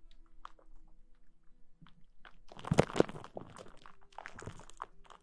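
Close-miked ASMR rustling: a run of crackly scratches and small taps, sparse at first, then denser and loudest around the middle.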